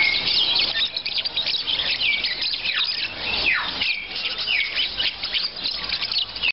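Many caged songbirds chirping and whistling at once, a dense overlapping chatter with several clear falling whistles. The sound cuts off suddenly at the end.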